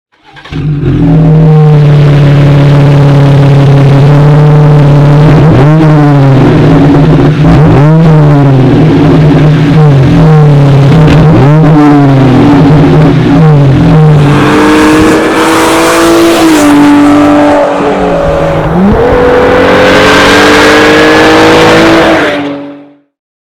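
Jeep Wrangler JL's 3.6-litre V6 exhaust note: idling steadily, then blipped four times about two seconds apart, then held at higher revs with the pitch sagging and climbing again, before cutting off sharply near the end.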